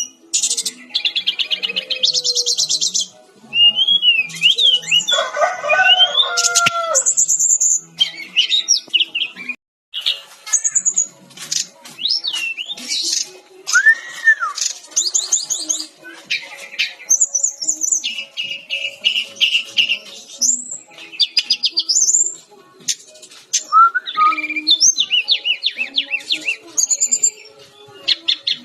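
Sikatan-rimba dada-coklat (SRDC) jungle flycatcher singing a vigorous, varied song of fast trills, rapid chattering note series and high whistled glides, with a brief break about ten seconds in.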